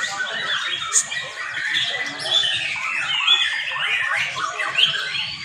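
Several young white-rumped shamas singing at once in contest, a dense, unbroken tangle of rapid whistles, trills and chirps.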